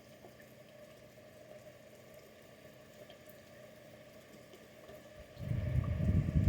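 Faint steady background with a low hum, then about five seconds in a sudden loud, rough low rumbling noise starts and keeps going.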